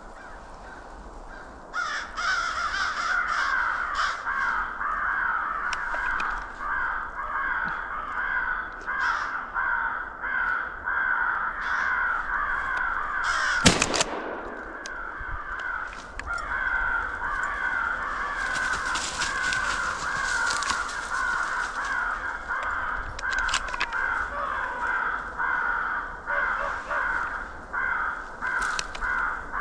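Many crows cawing over and over in a dense, steady chorus that starts about two seconds in. A single loud shotgun shot about 14 seconds in.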